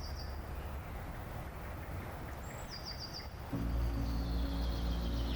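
Steady outdoor ambience with birds chirping in short quick runs of high notes. About three and a half seconds in, a low sustained music bed with held tones comes in underneath.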